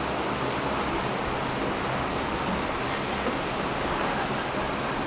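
Steady, even roar of a Boeing 787-8's turbofan engines during its takeoff.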